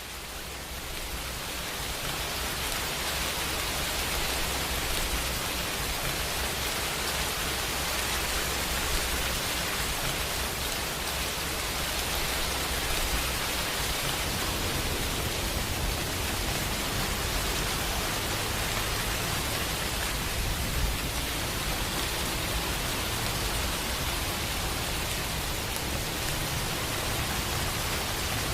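Steady heavy rainfall, a dense even hiss with a low rumble underneath, fading in over the first couple of seconds and then holding steady.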